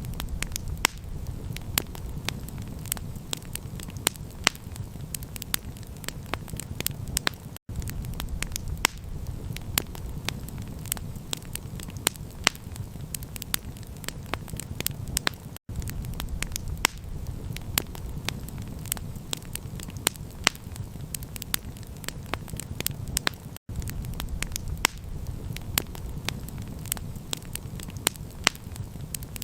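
Campfire crackling and popping, with sharp snaps over a steady low rumble. The sound drops out for an instant about every eight seconds.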